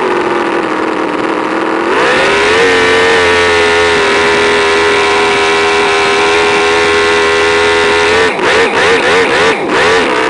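An engine running at high revs: the pitch sags for the first two seconds, climbs and holds steady for about six seconds, then rises and falls in quick blips of the throttle near the end.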